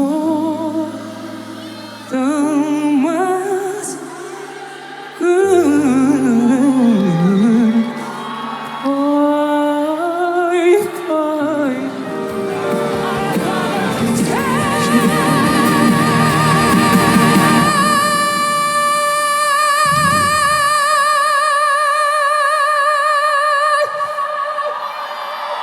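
A singer's wordless, melismatic line over low held accompaniment chords. From about halfway it rises into one long high note with wide vibrato that lasts about ten seconds.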